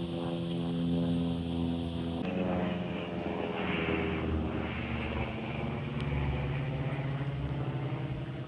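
Airplane engines droning with a steady tone. About two seconds in, the sound cuts abruptly to an aircraft passing, its engine pitch falling as it goes by.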